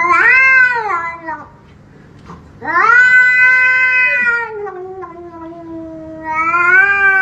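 A cat yowling in three long, drawn-out wails, each rising and then falling in pitch, the middle one the longest.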